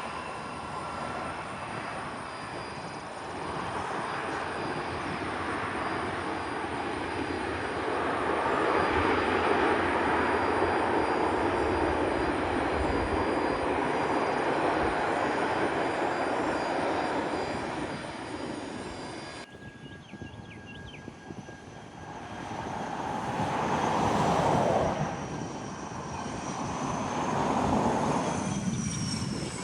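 Private jet engines: a loud rushing noise that builds over several seconds and holds as the aircraft passes. After a sudden cut partway through, the engine noise swells twice more, with a thin high turbine whine sliding in pitch.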